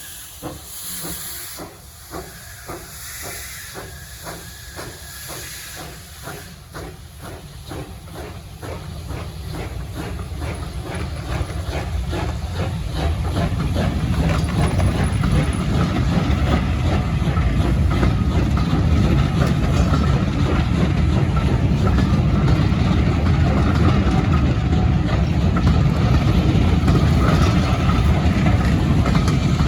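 Steam locomotive hissing steam with a regular beat about twice a second, then a train running past close by, a loud steady rumble on the rails that builds from a little under halfway through.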